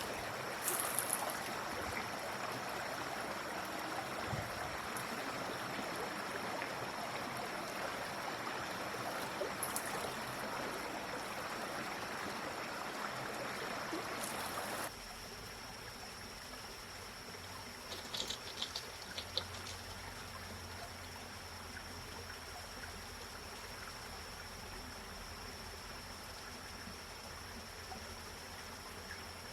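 Steady rushing sound of running water that drops abruptly about halfway through to a quieter hiss, with a faint high whine and a few light clicks.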